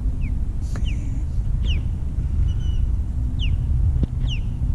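Birds calling in short, falling whistled notes, about five spread through the few seconds, over a steady low rumble.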